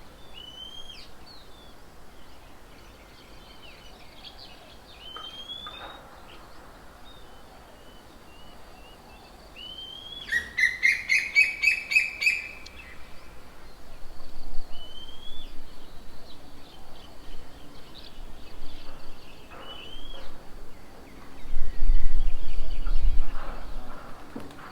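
Birds calling: short rising whistles repeated every few seconds, and about ten seconds in a loud, harsh, rapidly pulsing chatter lasting about two seconds. A low rumble near the end is the loudest moment.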